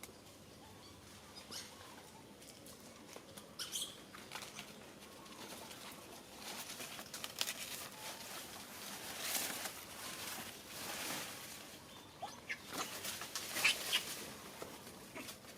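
Irregular rustling and pattering, like dry leaves or litter being disturbed, with scattered small clicks and a few faint, short, high squeaks. It grows busier after the middle.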